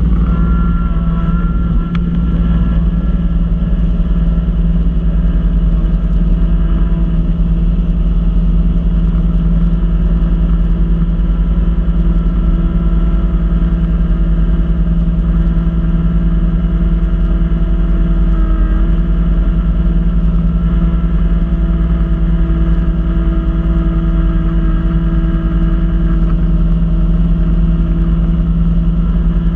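Kubota B2650 compact tractor's diesel engine running steadily at working speed, driving its front-mount B2782 snowblower.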